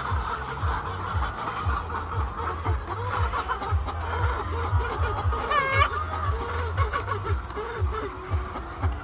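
A flock of laying hens clucking, many short overlapping calls throughout, with one louder, higher call about five and a half seconds in.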